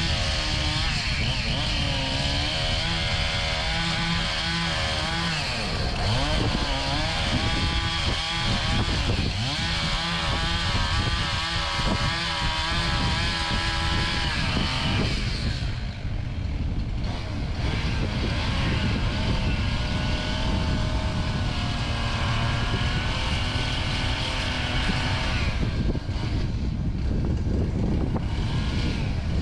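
Engine machinery running continuously, its pitch rising and falling as the engine speed changes.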